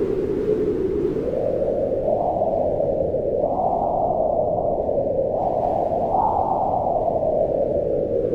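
Wind blowing with a low, hollow howl that swells and falls in slow gusts, rising in pitch a few seconds in and easing off near the end.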